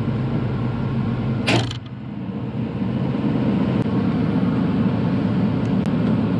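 A Bobcat E42 mini excavator's diesel engine running steadily, heard from inside the cab, with one brief harsh noise about one and a half seconds in.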